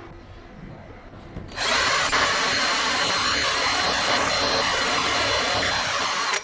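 A homemade power-tool wood planer switches on about a second and a half in and runs loudly and steadily, then cuts off suddenly at the end.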